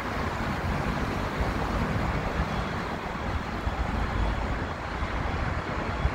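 Steady rumble of a passenger train drawing away along the track, blended with road traffic noise.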